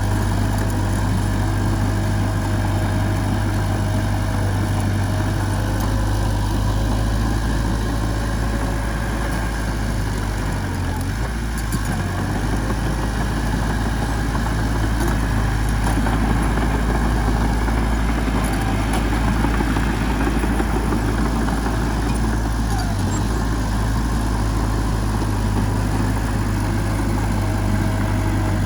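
Heavy diesel engine of a bulldozer or truck running steadily near idle, with a deep, even drone.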